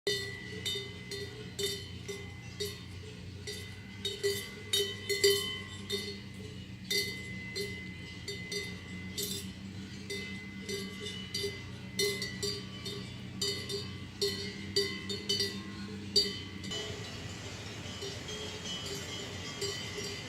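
Alpine cowbells clanking and ringing irregularly as grazing cows move their heads. Near the end the bells stop and give way to a steady rushing noise of stream water.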